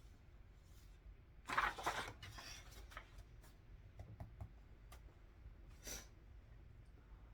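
Paper being handled at a desk: a loud rustle of sheets about a second and a half in that tails off, a few light separate clicks and taps, and another short rustle near the end.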